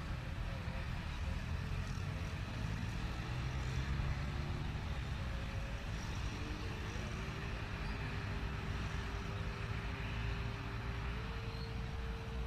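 Jet airliner engines running: a steady low rumble with a faint steady whine that steps up slightly in pitch near the end.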